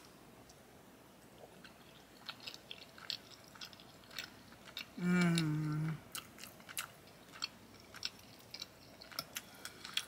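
Close-up mouth sounds of a person chewing a forkful of chicken Alfredo: soft, wet clicks and smacks. About five seconds in comes a closed-mouth "mmm" of enjoyment, lasting about a second.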